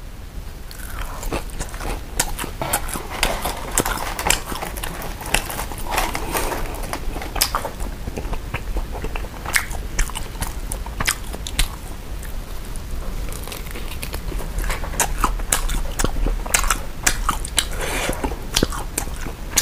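Close-miked chewing and biting of glutinous-rice mini pancakes, with many small wet clicks and smacks of the mouth throughout.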